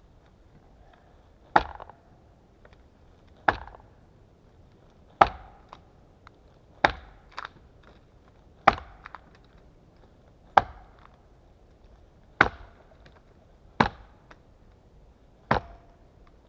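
Small axe chopping wood in a steady rhythm: nine sharp strikes, about one every two seconds, some followed by a lighter knock.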